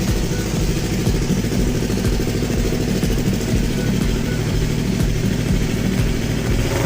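Yamaha YZF-R3's 321 cc parallel-twin engine idling steadily through its exhaust.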